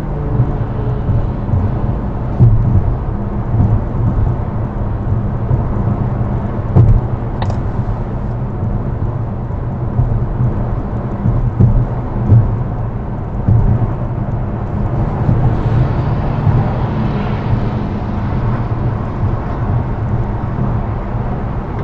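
Steady low rumble of highway driving, with cars passing on loud exhausts; a passing car swells up around the middle-to-late part.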